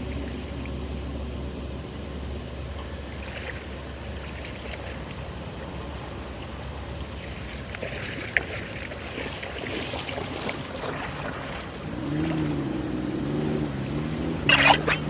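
Steady rush of water flowing through a drain. About twelve seconds in a low, wavering hum joins it, and near the end there are a few loud splashes.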